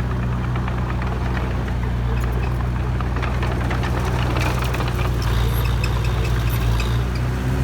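A heavy diesel engine of a dump truck or excavator running steadily at a low, even pitch, with scattered light clicks and rattles over it.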